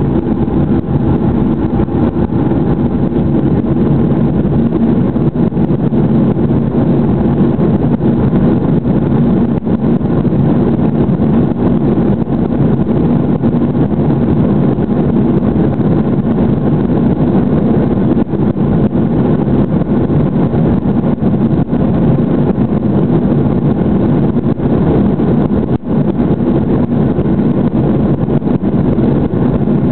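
Airliner jet engine noise: a steady, loud rumble that holds level without rising or falling.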